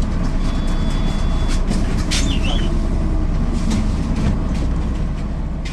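MAN NL 262 city bus's diesel engine running, a dense low rumble with rattles and clicks, and a brief high squeak about two seconds in. The sound begins to fade near the end.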